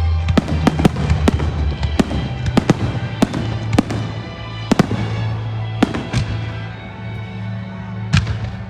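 Fireworks display: a quick string of sharp bangs from bursting shells, thinning out as it goes, with one more bang near the end, over music with steady low notes.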